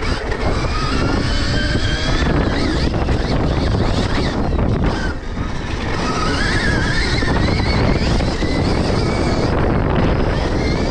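Stark Varg electric motocross bike's motor whining, rising and falling in pitch with the throttle, under heavy wind rush on the microphone while riding.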